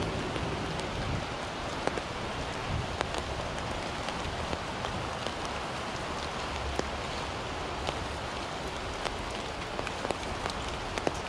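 Rain falling on an umbrella overhead: a steady hiss of rain with many separate drops ticking sharply on the canopy.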